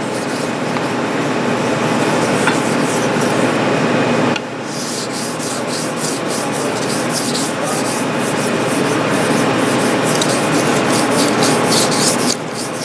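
Knife blade stroked up and down on a wet 6000-grit whetstone, giving a steady rubbing scrape made of repeated strokes, with a brief pause a little over four seconds in. This is the fine polishing stage of sharpening, on a soaked stone that runs smooth.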